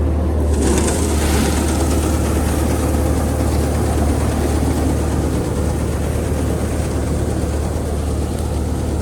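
An engine running steadily with a deep, even hum; about a second in, a broad rushing noise joins it and carries on.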